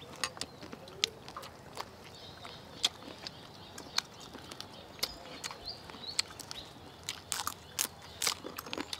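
Close-up eating sounds: bites and chewing of crispy fried chicken, heard as irregular sharp clicks, crunches and mouth smacks.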